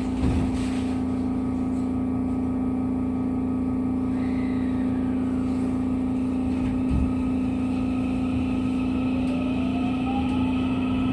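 Steady electrical hum of a JR West 207 series electric train standing at a platform, heard from inside the car, with a faint rising whine near the end.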